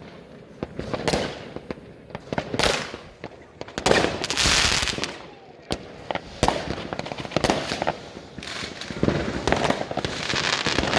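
New Year's Eve fireworks: rockets and firecrackers banging at irregular intervals, with a longer, louder noisy burst about four seconds in.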